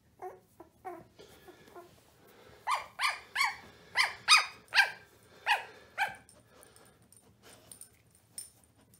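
Young puppies yelping in short, high calls that fall in pitch: a few faint ones at first, then a run of about eight louder yelps in quick succession.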